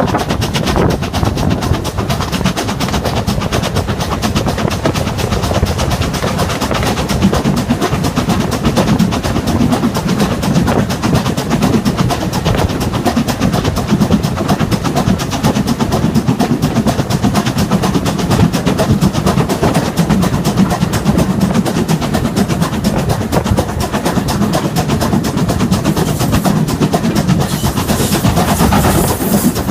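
Steam train running along the line, with a rapid, even rhythmic beat and clatter.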